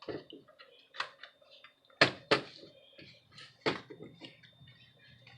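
Clicks and light taps from hands working inside an opened laptop while its internal cable connectors are being disconnected, with four louder clicks about one, two, two and a half and nearly four seconds in and fainter taps between.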